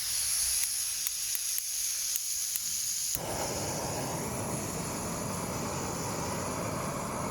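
Butane camping gas stove being lit: gas hissing from the burner with several sharp clicks of the piezo igniter, then about three seconds in the flame catches and the burner runs with a steady roar.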